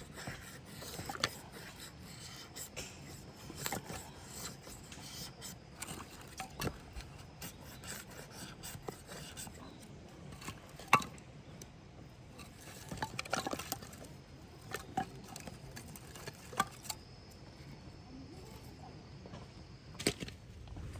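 Scattered light knocks, taps and scraping sounds of objects being handled, coming at irregular intervals, with a sharper knock about eleven seconds in.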